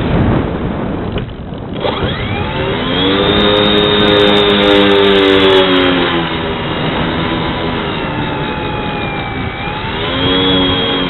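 Brushless electric motor and propeller of a foam RC plane heard from its onboard wing camera: a rough wind rush at first, then a pitched whine that rises as the throttle comes up about two seconds in, holds steady, sags slowly and rises again near the end.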